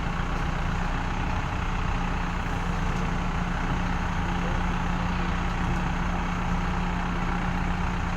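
Heavy diesel engine running steadily at an even speed, with no revving or change in pitch.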